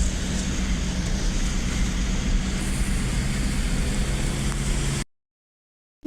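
Heavy rain, with a steady low engine-like hum under the dense noise, cutting off suddenly about five seconds in.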